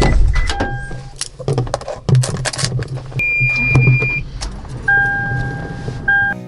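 Keys jangling amid a run of sharp clicks and rattles, with steady electronic beeps sounding about three seconds in and again from about five seconds in.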